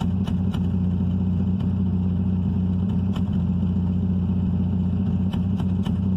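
Daewoo Lanos 1.6 16V four-cylinder petrol engine running at a steady idle, with irregular sharp ticks through the hum. It runs rough, which the owner puts down to a split vacuum hose making the idle erratic.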